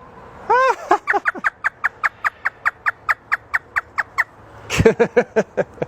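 African grey parrot imitating a hysterical laugh: a couple of rising-and-falling notes, then a rapid run of short 'ha' notes at about five a second for some three seconds, and a few louder notes near the end.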